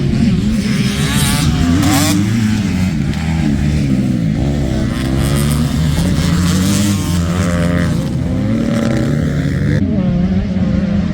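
Motocross bikes running on the track, their engines revving up and down with the throttle, more than one engine heard at once.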